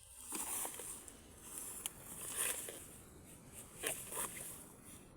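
Rain pattering in an uneven hiss that swells and fades, with a couple of sharp clicks, the sharpest about two seconds in.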